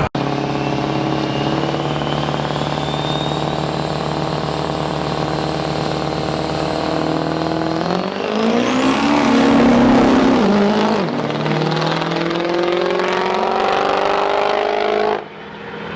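Turbo-diesel drag truck held at high revs with a thin whistle slowly rising, then launching about eight seconds in: it gets louder, the whistle jumps sharply higher and the engine note climbs as it pulls away. The sound cuts off abruptly shortly before the end.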